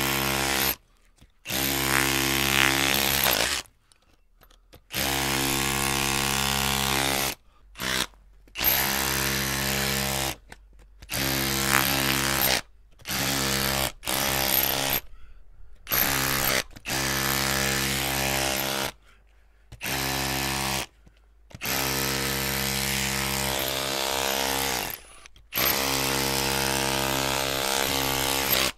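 Electric drill motor running at a steady pitch in repeated bursts, stopping and starting about a dozen times. Each run lasts from under a second to a few seconds, with short gaps of near silence between.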